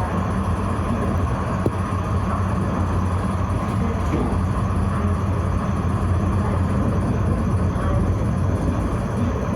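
Tram running along its track: a steady low rumble with a faint higher tone over it.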